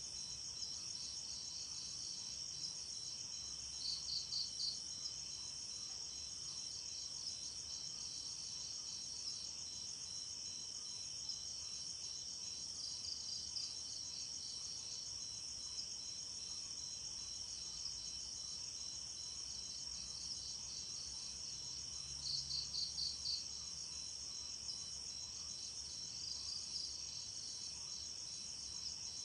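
A steady chorus of night insects trilling high and fast, with a louder run of four or five quick chirps about four seconds in and again about two-thirds of the way through.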